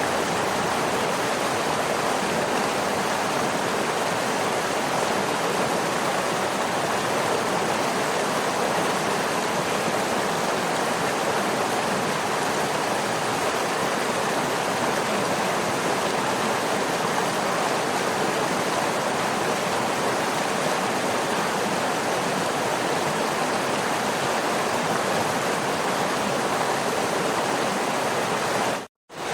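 Waterfall: a steady, even rush of falling water. It cuts out for a split second near the end.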